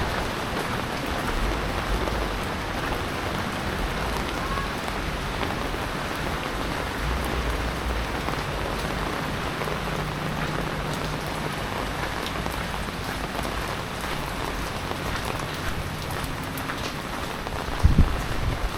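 Steady typhoon rain falling, an even hiss of drops on surfaces, with a brief low thump near the end.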